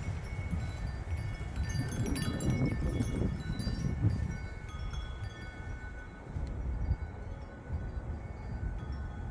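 Wind chime ringing in gusty wind: many quick overlapping strikes in the first half, thinning to a few long ringing tones later. Low rumble of wind gusts underneath.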